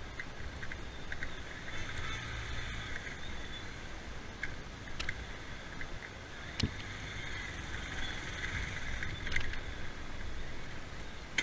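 A two-wheeler's engine running low in slow, jammed traffic, with the steady hum of vehicles around it and a few sharp clicks.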